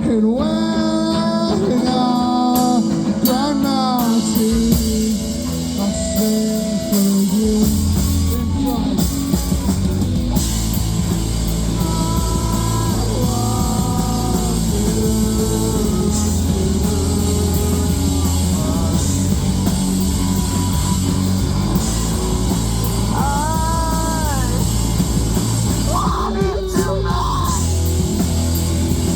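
Live rock band playing a song: a sung lead vocal over guitar, with a heavy low end of bass and drums coming in about seven seconds in.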